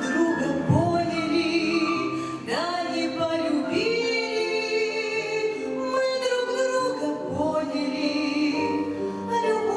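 A woman singing long, held notes with vibrato over an instrumental accompaniment.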